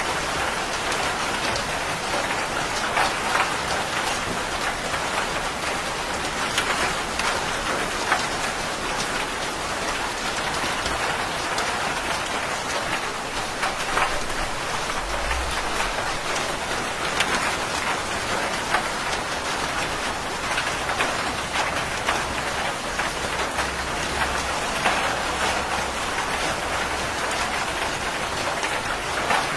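Steady heavy rain pattering on a surface, a dense even hiss with many fine drop ticks. A faint low rumble of distant thunder comes about halfway through and again, more weakly, later on.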